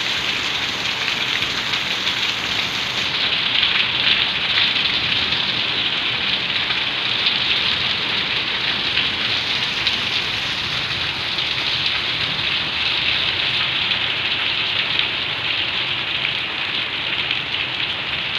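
Heavy rain falling steadily onto a wet concrete floor, an even, unbroken hiss of drops.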